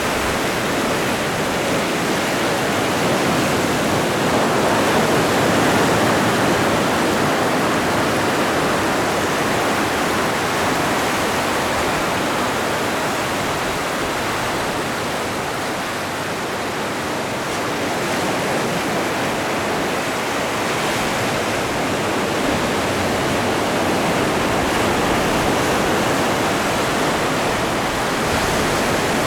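Atlantic Ocean waves breaking and washing ashore, a continuous rush of surf that swells gently in level about five seconds in and again in the last third.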